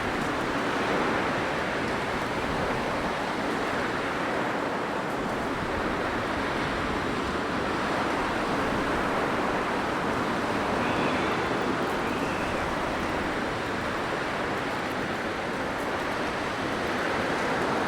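Blizzard wind blowing steadily as a dense rushing noise, swelling and easing slightly in strength.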